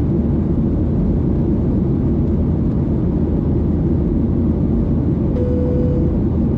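Steady, loud low rumble of an airliner cabin in flight, jet engine and airflow noise. A brief single steady tone sounds about five seconds in.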